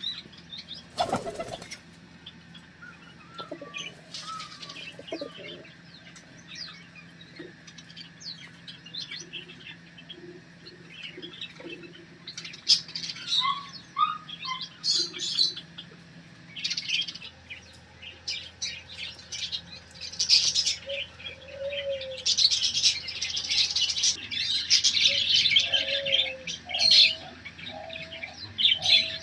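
Pet birds chirping, with wing flapping, the chirps growing denser in the second half. Near the end a run of short, lower calls repeats about once a second.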